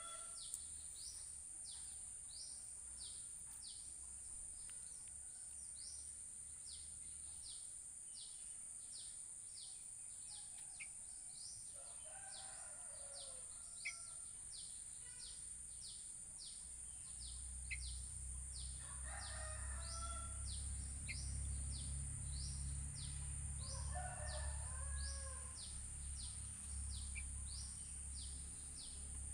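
Roosters crowing three times, each crow about a second and a half long, over a steady high-pitched hiss and a rapid run of short high chirps about twice a second. A low rumble rises in the second half and fades near the end.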